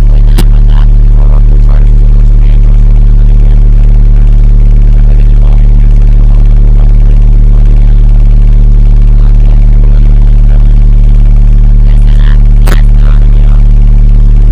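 Rally car's engine idling at steady revs, heard loud from inside the stripped cabin, with a sharp click just after the start and another near the end.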